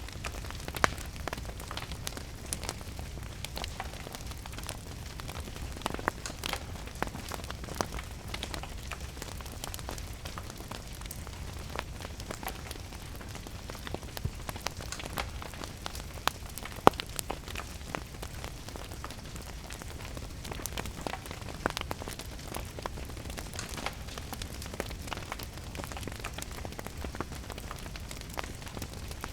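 A wood fire crackling in a fireplace, with many irregular sharp pops and snaps and one sharper crack about halfway through. Underneath runs a steady patter of rain and a low rumble.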